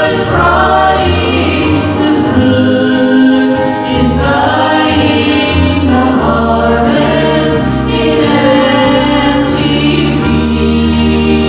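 Gospel vocal group singing a hymn in harmony, with sustained low bass notes underneath.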